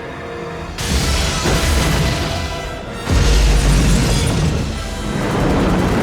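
Film score over explosion effects: two sudden heavy booms, about a second in and about three seconds in, the second the louder and deeper, from the helicopters' missile barrage.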